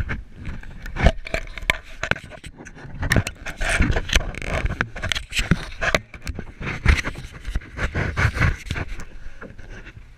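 Irregular knocks and scrapes from a kayak and paddle being handled, with a noisy rustle between the knocks.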